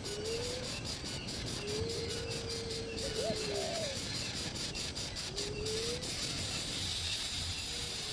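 A bird giving low whistled calls: a short rising note, then a long, level whistle ending in an upward flick, and another rising note later on.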